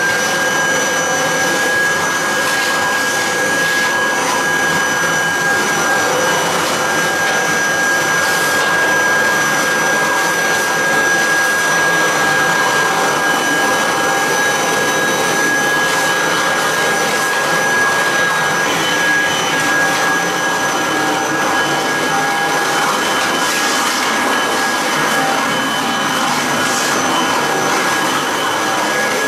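1986 Kirby Heritage 2 upright vacuum cleaner running at full speed, a steady rush of suction with a high whine held at one pitch.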